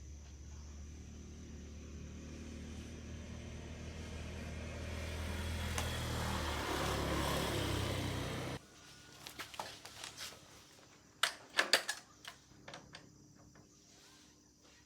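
A motor engine running with a low steady hum that grows louder, then stops abruptly about eight and a half seconds in. A few sharp knocks follow.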